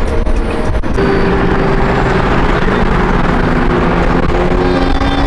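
Car engine running loudly. A rough, pulsing rumble in the first second settles into held revs whose pitch climbs slowly.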